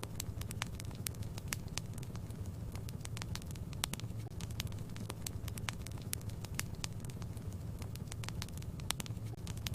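Fire crackling in a fireplace: many sharp, irregular pops and snaps over a steady low rumble of the flames.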